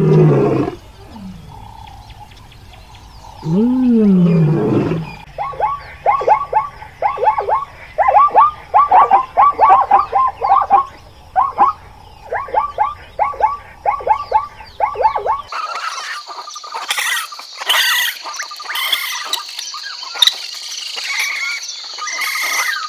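A lion gives two low calls a few seconds apart, each rising and then falling in pitch. They are followed by a long run of short, sharp repeated animal calls, then high chirping and clicking.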